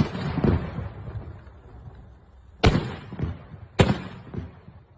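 Firecrackers exploding: three sharp bangs, one right at the start, one about two and a half seconds in and one just before four seconds, each trailing off in a rumbling echo.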